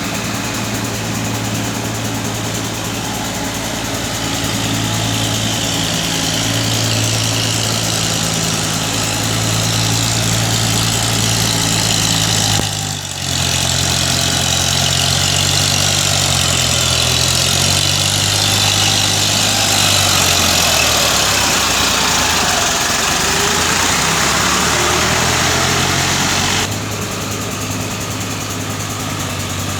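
Eicher 560 tractor's diesel engine running steadily. About halfway through the sound drops out briefly, then the engine note wavers and falls with more hiss over it, and near the end it changes suddenly back to a steady run.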